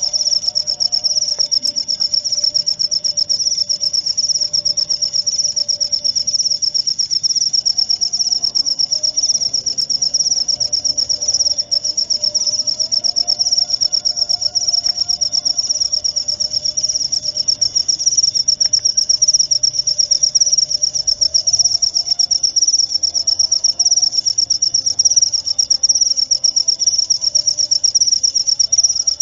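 Jaliteng crickets chirping without a break: a loud, high, rapidly pulsing trill that holds steady throughout.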